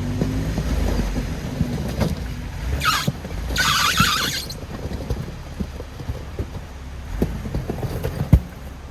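Off-road Jeep driving slowly over rough trail, its engine running low under a stream of knocks and clunks from the body and suspension. Two short bursts of hissing noise come about three and four seconds in, and a single sharp knock near the end.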